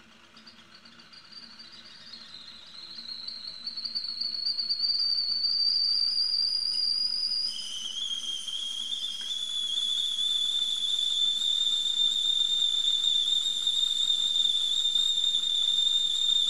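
A high whistling tone over a hiss that fades in and grows loud. It rises slowly in pitch, then about halfway through drops suddenly to a lower pitch and holds there, with a fainter higher tone above it.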